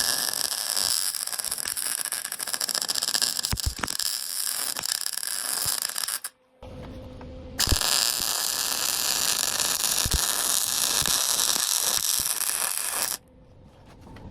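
Electric arc welding: the arc crackles and sizzles steadily as a bead is laid to join a leaf-spring steel plate to the anvil's face. Two runs of about six seconds each, with a pause of about a second and a half between them.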